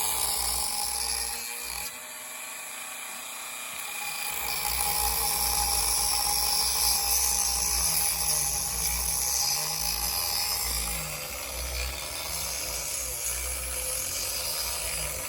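Dremel rotary tool cutting along a traced line in a pinewood derby block: a steady high-pitched whine with the grinding of the wood. It eases briefly about two seconds in, then cuts harder from about four seconds on.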